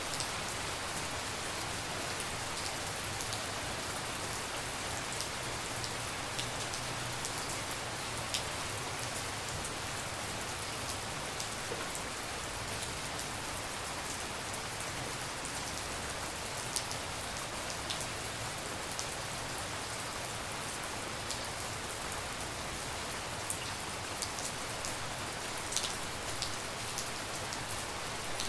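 Steady rain falling, with scattered sharper drops tapping close by now and then.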